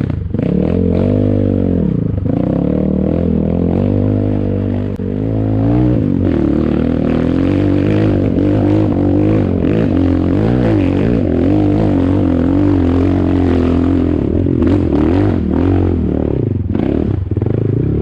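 Ataki DR 250 enduro motorcycle engine being ridden off-road, its revs rising and falling again and again with the throttle, over clattering and scraping from the rough ground.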